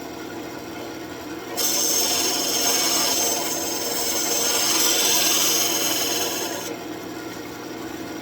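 Wood lathe running with a steady hum while the spinning birch workpiece is worked. From about a second and a half in until near the end, a loud rough hiss of wood being rubbed or cut at speed.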